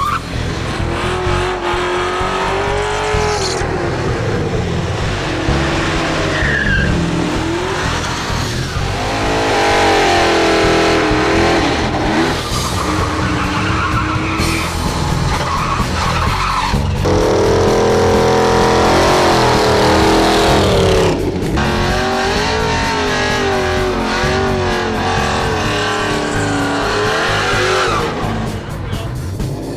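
Drag-racing muscle cars' engines running hard with tyre squeal, under background music; the sound changes abruptly several times.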